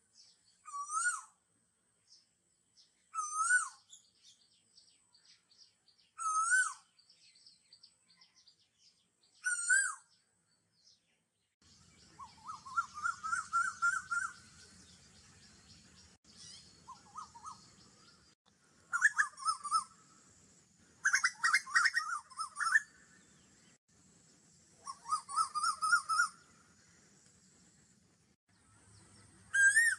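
Bird calls: a wavy whistled call repeated about every three seconds, then a busier run of chirps and warbling calls. A faint steady hiss sits underneath from about twelve seconds in.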